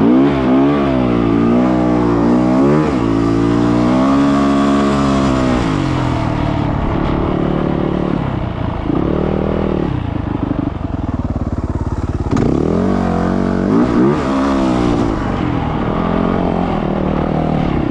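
Yamaha YZ450F four-stroke single-cylinder dirt bike engine revving hard and easing off again and again as it is ridden through sand, with a steadier stretch in the middle before the revs climb and fall once more.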